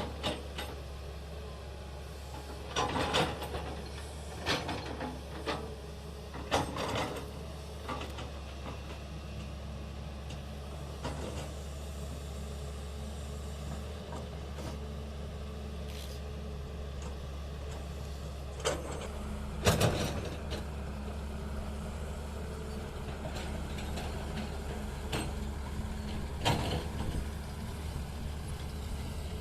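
Heavy vehicle engine idling steadily, with several sharp metallic knocks and clanks over it, the loudest about twenty seconds in.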